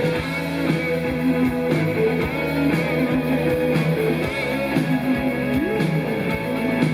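Rock band playing live: an electric guitar line with notes bending in pitch over bass and steady drum hits, without singing.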